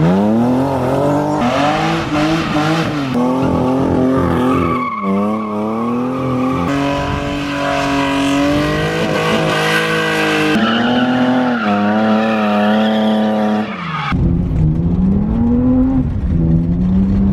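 BMW E36 drift cars' straight-six engines revving up and down hard with tires squealing, in a string of short clips that cut abruptly from one to the next. A low rumble joins the engine note over the last few seconds.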